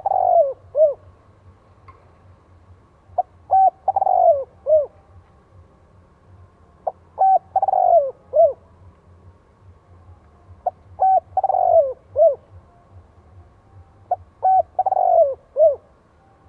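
Spotted dove singing its cooing song. The phrase of a few short notes, a longer falling coo and a final note repeats about every three and a half seconds.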